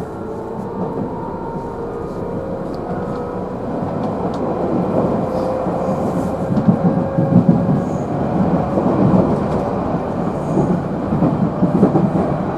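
JR Central 311 series electric train heard from inside its motor car: a traction motor whine rising slowly in pitch as the train gathers speed, over the rumble of wheels on rail that grows louder about four seconds in.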